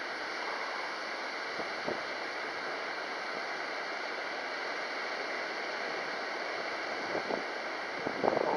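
Steady hiss of strong wind, even and unbroken, with a couple of faint brief knocks.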